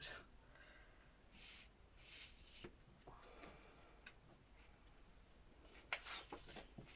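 Near silence: room tone with a few faint rustles and light clicks.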